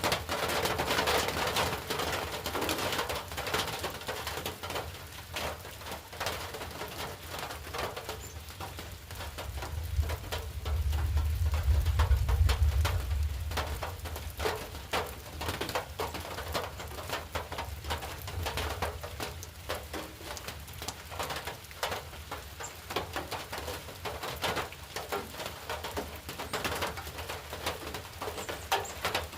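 Rain falling, with many drops pattering irregularly on a hard surface. A low rumble swells and fades in the middle.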